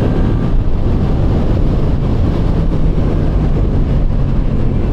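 Suzuki GSX-8S's 776 cc parallel-twin engine running under way, with wind rushing over the microphone. The engine note is steady, its pitch stepping up a little about two seconds in.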